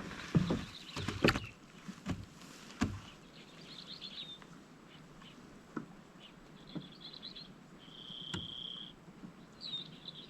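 Birds calling: a few short, high chirping phrases and one held whistled note about a second long near the end, with a few faint clicks and knocks scattered through.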